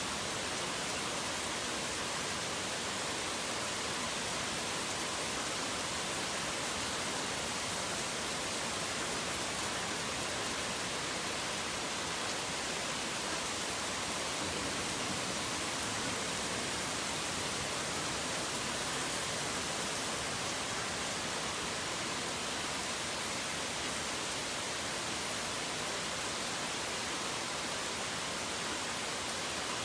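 Steady rain falling, an even, unbroken hiss with no separate drops, thunder or birds standing out.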